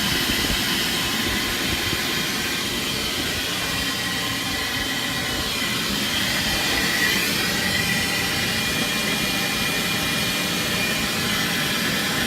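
Oil furnace burner running steadily, its motor, blower and fuel pump making a continuous rushing hum while the water-flooded unit is purged.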